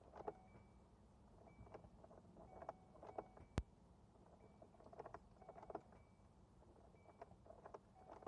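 Faint clicking from a 2015 Kia Soul as it is tried and fails to start: clusters of small clicks every second or so, some with a short high tone, and one sharp click about three and a half seconds in. The engine never cranks or catches.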